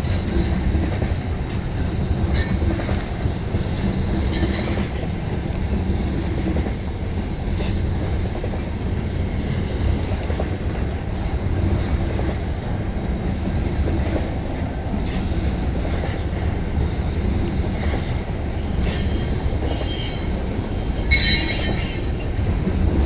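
Freight cars of a Canadian Pacific Kansas City train, tank cars among them, rolling past: a steady rumble of wheels on rail with scattered clicks, and a brief high wheel squeal a couple of seconds before the end.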